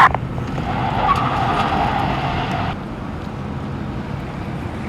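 Two-way radio hiss from an open channel with no voice on it, cutting off suddenly after about two and a half seconds. Underneath is a steady low vehicle rumble.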